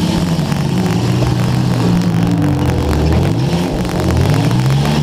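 Demolition derby car engines revving, their pitch rising and falling, with more than one engine heard at once, over crackling static from a wet camera microphone.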